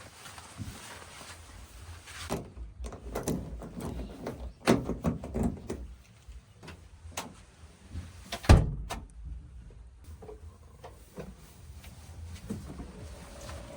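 Backhoe loader at work: irregular clanks and thuds over a low rumble, with one heavy thud about eight and a half seconds in.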